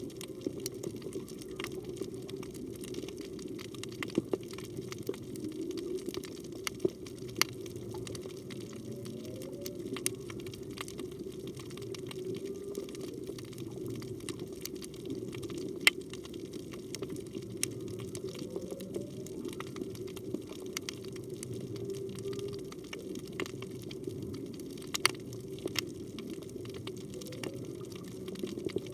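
Underwater reef ambience: a steady low rush of moving water with many scattered sharp clicks and crackles. A few faint, short rising tones come every several seconds.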